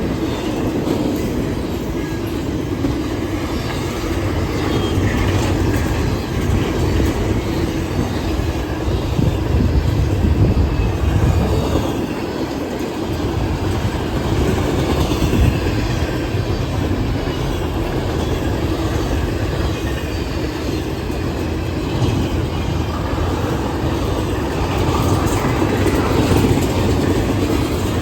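A passing train's cars rolling by with a steady rumble and a repeated clicking of wheels over the rails, easing off briefly about halfway through.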